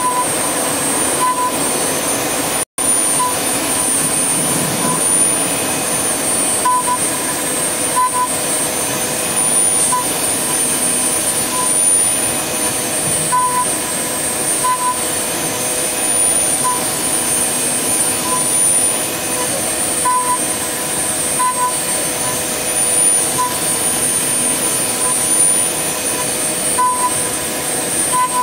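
CNC wood lathe running its finishing pass with a 6 mm ball-nose router bit: a steady loud whine and cutting noise, with short high pips at irregular intervals. The sound drops out for an instant about three seconds in.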